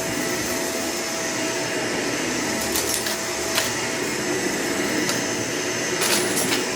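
Vacuum cleaner running steadily with a constant motor whine, with a few brief crackles as bits of debris are sucked up, about three seconds in and again near the end.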